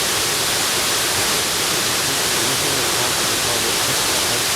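Waterfall, its falling water rushing in a steady, unbroken hiss.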